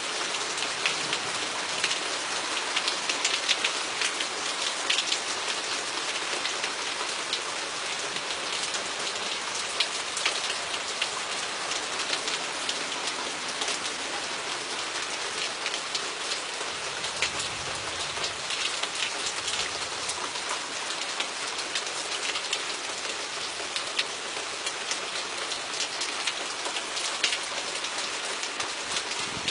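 Rain falling steadily in a thunderstorm, a dense patter of many individual drops.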